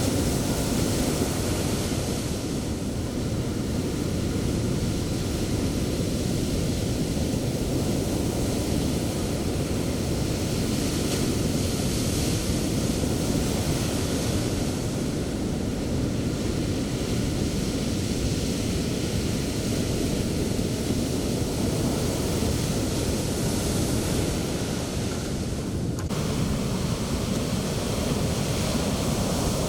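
Sea surf breaking and washing onto the beach: a continuous low rumble, with the hiss of foam swelling and fading every few seconds.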